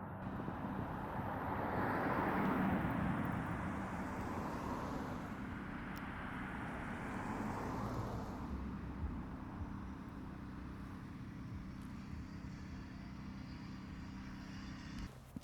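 Road traffic: a vehicle passes about two to three seconds in and another around eight seconds, over a steady low hum that cuts off near the end.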